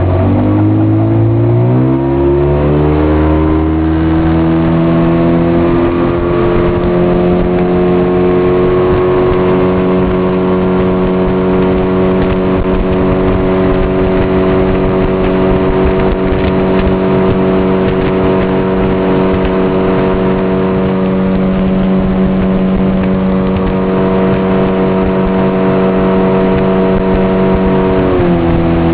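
A motorboat engine pulling away, rising in pitch for the first several seconds as the throttle opens, then running steadily at cruising speed. It drops in pitch about a second before the end as the throttle eases off.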